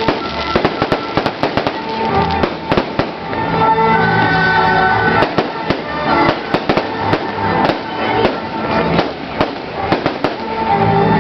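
Fireworks going off in a dense, irregular barrage of sharp bangs and crackles, with music playing underneath.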